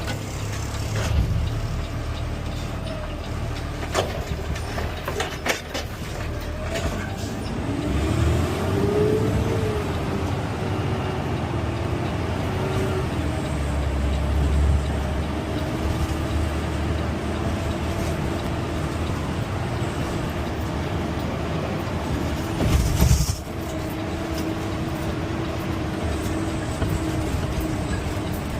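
CNG Peterbilt 520 automated side-loader garbage truck running, with a steady low rumble and a pitched whine that rises about eight seconds in and then holds steady. A brief loud burst of noise comes about three-quarters of the way through.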